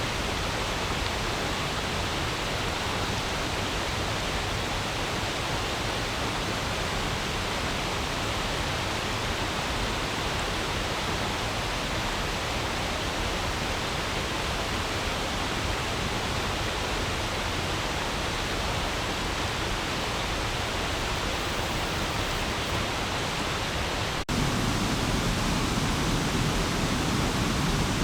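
Stream water flowing over stones in a steady, even rush. About 24 seconds in it cuts out for an instant, then comes back a little louder and fuller.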